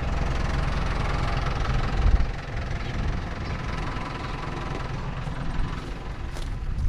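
Truck engine idling steadily, with a single heavy thump about two seconds in, after which the engine sound is a little quieter.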